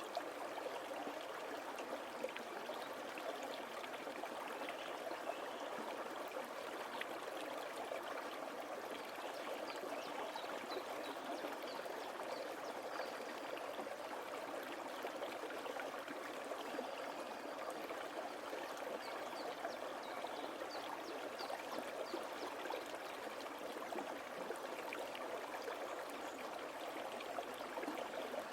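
Small forest stream flowing steadily over stones, a continuous babbling and trickling.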